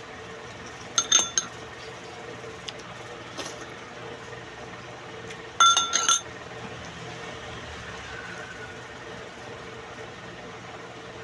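Eating utensils clinking against dishware in two short clusters of ringing clinks, about one second in and again around the middle, over a steady low hum.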